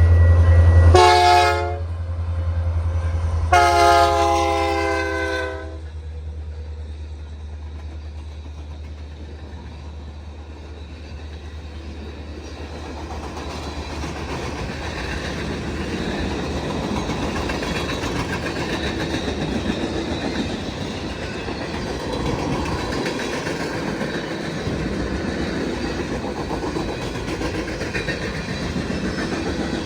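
Diesel freight locomotive passing with its engine rumbling, sounding its horn once briefly and then once longer, followed by a long string of railcars rolling past with clickety-clack of wheels over rail joints.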